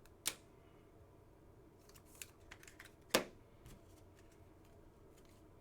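Trading cards being handled: two sharp clicks, one just after the start and one about three seconds in, with a few faint ticks between them over quiet room tone.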